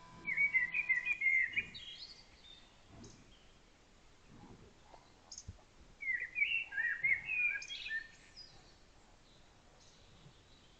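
A songbird singing two short, quick twittering phrases of about a second and a half each: one right at the start, the other about six seconds in.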